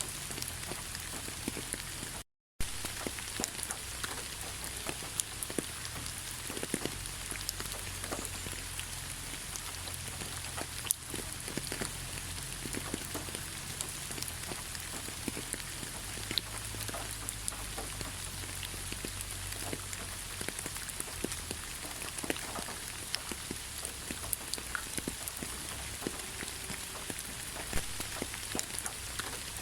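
Steady rain falling in a pine forest, an even hiss with many individual drops hitting close by. About two seconds in, the sound cuts out completely for a fraction of a second.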